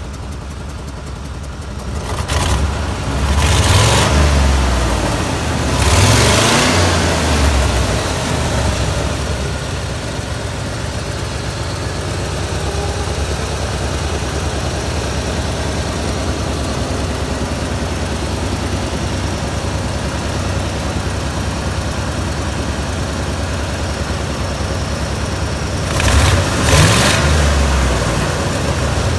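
1989 Ford F-350's 460 big-block V8 idling steadily, revved up and back down twice in the first several seconds and once more near the end.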